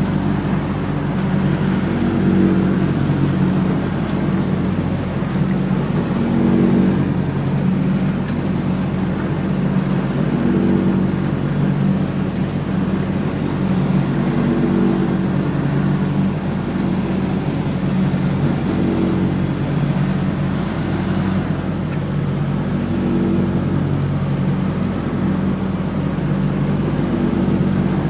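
John Deere X304 lawn tractor's engine running steadily under mowing load. Its sound swells and eases every three to four seconds.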